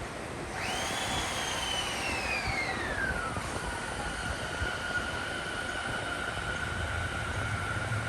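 JR East 209 series 500 electric train pulling away, its traction motors giving a high electric whine. The whine starts about half a second in and falls in pitch for a few seconds, then holds one steady tone over the running noise.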